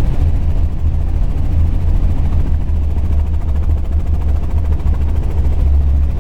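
Helicopter in flight: a steady, loud, low drone of rotor and engine.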